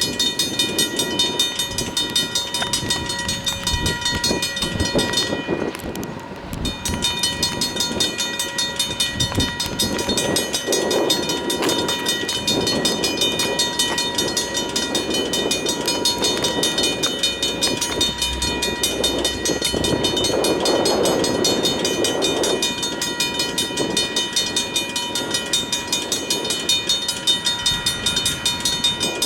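Railroad crossing signal bell ringing with rapid, even strokes as the crossing is activated for an approaching train. Under it, a train's low rumble swells twice.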